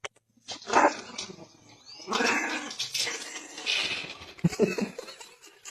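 A dog barking several times.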